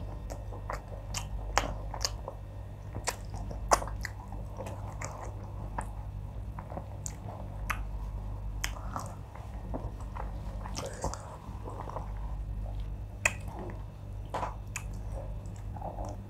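Close-miked chewing of a mouthful of wheat fufu with oha soup, with wet mouth clicks and smacks at irregular intervals over a low steady hum.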